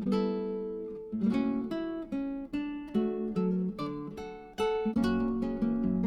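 Background music: acoustic guitar picking and strumming chords, each note ringing and fading.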